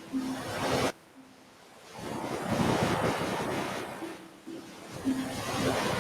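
Ocean waves breaking and washing up a beach in rising and falling surges. One wash cuts off abruptly about a second in, a larger wave builds and fades in the middle, and another swells near the end.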